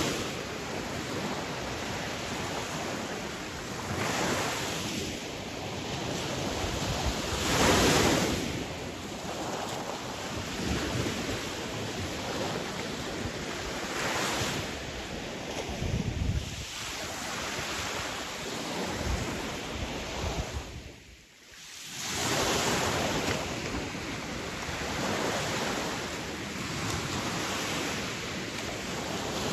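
Sea waves breaking and washing on a shore: a continuous rushing surf that swells every few seconds, with a brief drop-out about two-thirds of the way through.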